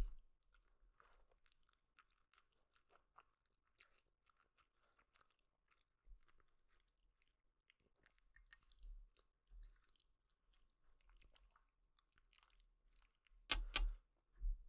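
Faint close-up mouth sounds of someone chewing noodles: soft wet clicks and smacks. Near the end come a few much louder sharp clicks, two close together and then one more.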